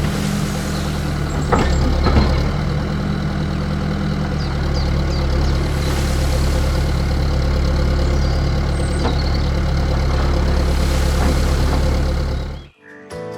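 An engine running steadily with a low, even hum, with a couple of sharp knocks about a second and a half and two seconds in. It cuts off abruptly near the end.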